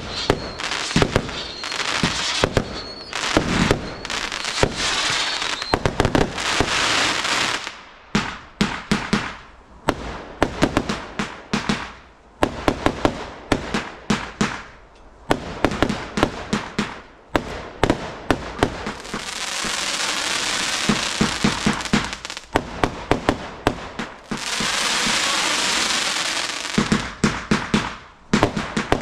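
Garden fireworks going off: rapid volleys of sharp bangs, broken by stretches of dense hissing and crackling lasting a few seconds each.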